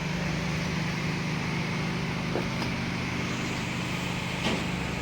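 Angle grinder running steadily with a high hum and a grinding hiss as it cuts into an alternator's rear bearing that has seized and welded itself onto the shaft.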